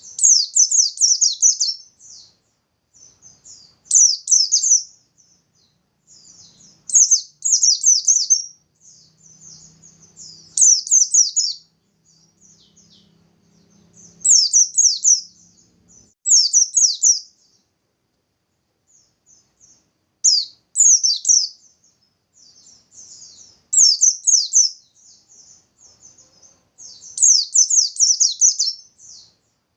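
A pleci bustomi white-eye singing its rapid, high 'nembak' song in bursts of quick chirps about a second long, repeated every two to four seconds.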